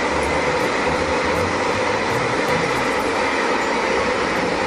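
A passenger train running past on the line, a steady train noise that holds without a break.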